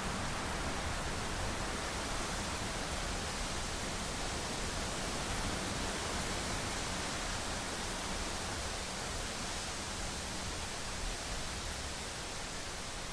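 Heavy rain falling steadily, an even hiss with no thunderclap.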